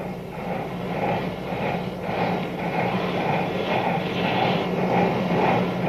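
Union Pacific 4000-class Big Boy articulated steam locomotive working, its exhaust chuffing about twice a second and growing slowly louder over a steady low hum.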